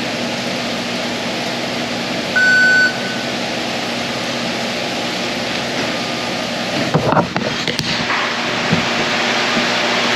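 Steady ventilation hum in a takeaway shop, with one short, high electronic beep about two and a half seconds in and a brief clatter of handling noises near seven seconds.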